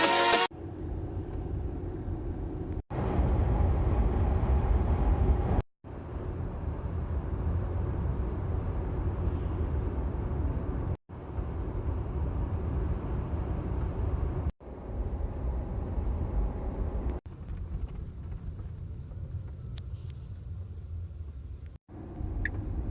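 Steady low road and tyre rumble inside a moving electric car's cabin, broken by several abrupt cuts.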